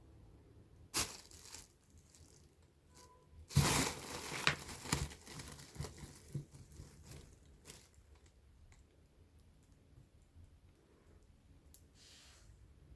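Rustling and crinkling: a short burst about a second in, a louder spell of crinkling at about three and a half seconds, then scattered small rustles dying away.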